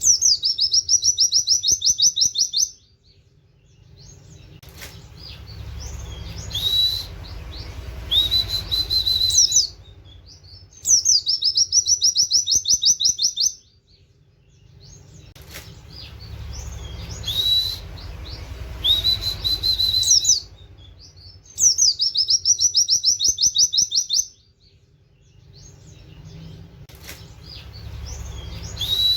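A white-eye (pleci) bird singing: a fast, high rattling trill of about two and a half seconds, then a few rising 'wit' whistles. The same phrase repeats about every eleven seconds, three times over.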